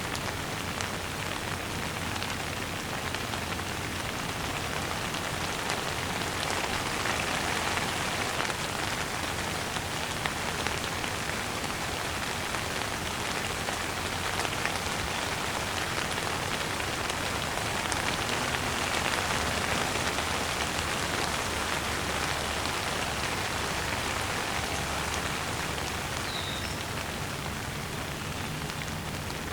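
Steady, gentle rain falling on a surface, a dense even patter of many small drops.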